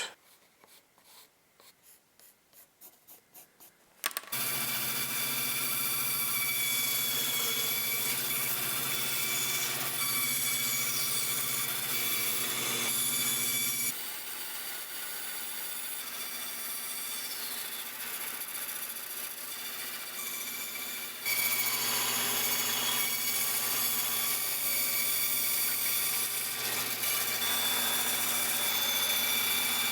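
Woodworking power tool's electric motor running steadily while shaping a small birch block. It starts about four seconds in, after a near-quiet stretch with faint ticking, then drops a little in level around the middle and comes back up later.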